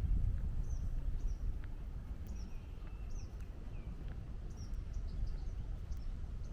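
Small birds calling in short, high chirps over a steady low rumble.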